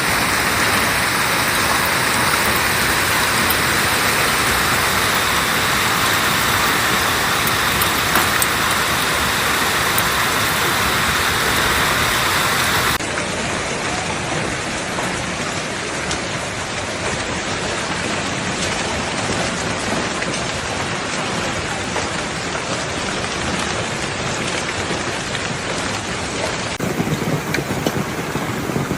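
Hail and heavy rain pelting down on surfaces: a loud, dense, steady hiss with scattered sharp ticks of impacts. The sound changes abruptly twice, about halfway and near the end, as separately recorded stretches follow one another.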